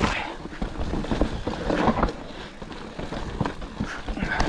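Ibis mountain bike clattering over a rough, rocky descent: a dense, irregular run of knocks and rattles from tyres, chain and frame over a low rumble, easing briefly a little past halfway.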